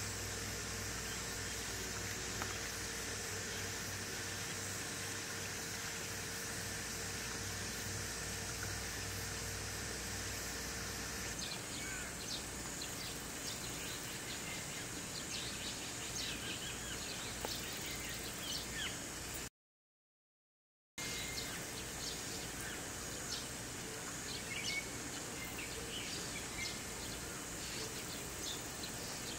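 Outdoor ambience: a steady hiss for the first ten seconds or so, then birds chirping over a steady background. The sound cuts out entirely for about a second and a half about two-thirds of the way through.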